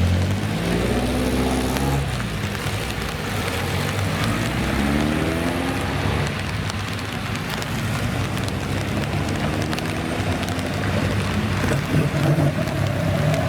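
Classic car engine accelerating hard. Its revs climb, drop back and climb again about three times, over steady road and wind noise.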